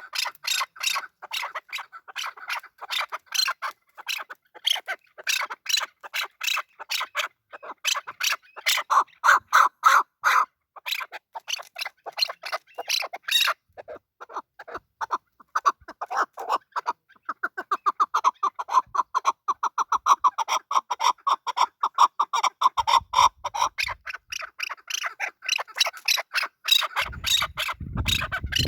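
Male chukar partridge calling: a long, rapid run of repeated short chuck notes that speeds into a fast, steady series partway through. A low rumble joins near the end.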